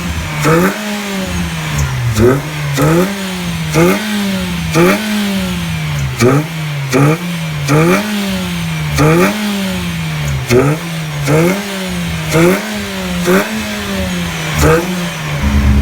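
Nissan Almera engine breathing through an aftermarket full exhaust system, revved in quick throttle blips a little over once a second. Each rev rises fast and falls back, with a short sharp crack at its top.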